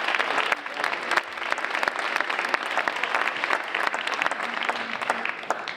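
An audience of schoolchildren clapping, dense applause that fades out near the end.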